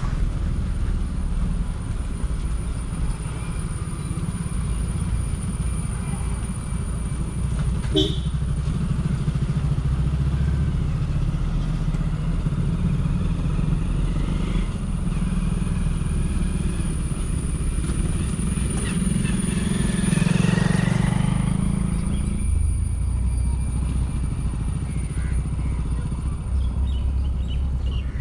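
Hero Honda motorcycle's single-cylinder engine running steadily while riding, with wind over the microphone. There is a sharp click about eight seconds in, and the sound swells louder for a couple of seconds about twenty seconds in.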